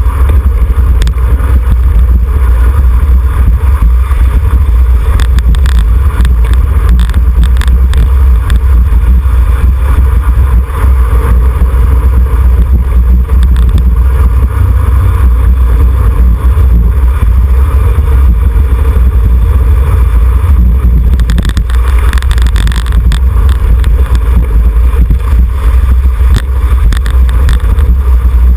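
Wind buffeting the microphone of a camera riding along on a racing bicycle, a loud, steady low rumble with road and tyre noise under it. A hissier gust comes through about 21 seconds in.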